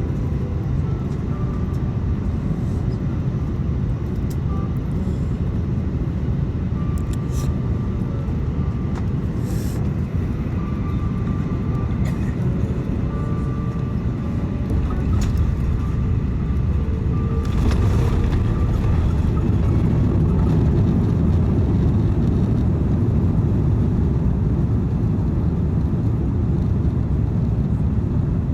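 Cabin noise inside an Airbus A330-200 from a window seat: a steady low rumble of engines and airflow with faint steady whining tones. About two-thirds of the way in there is a brief rush and the rumble grows louder and stays up.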